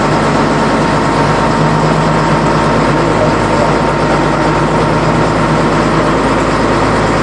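Boat engine running steadily under way: a loud, even drone with a steady low hum.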